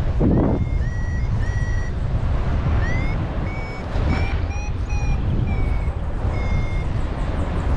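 Paragliding variometer beeping: a run of short high beeps, a little under two a second, their pitch shifting slightly, the vario's sign that the glider is climbing in lift. Heavy wind noise rumbles on the microphone underneath.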